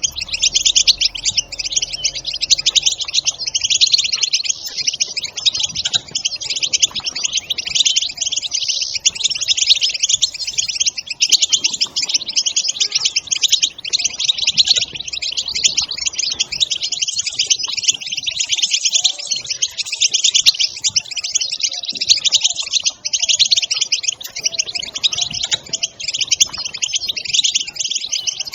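European goldfinches twittering: a continuous, fast chatter of short, high chirps with no break, the excited 'batbata' call.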